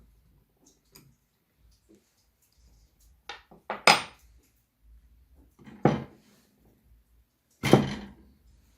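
Metal tool parts knocked and set down on a hard surface: four clanks with short ringing tails, a small one about three seconds in, then louder ones about four seconds, six seconds and near the end.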